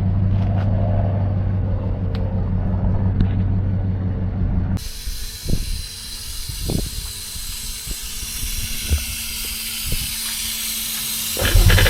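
An engine running steadily at idle, then an abrupt change to a steady hiss with a few sharp knocks. Just before the end an engine revs up, rising in pitch.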